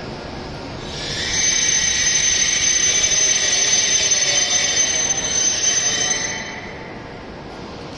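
E7 series shinkansen train braking to a stop alongside the platform: a loud, high squealing hiss with several steady tones swells about a second in and dies away a little after six seconds as the train halts.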